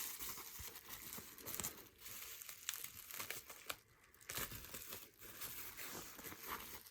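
Packaging crinkling and rustling in irregular bursts of small crackles as it is handled and opened by hand.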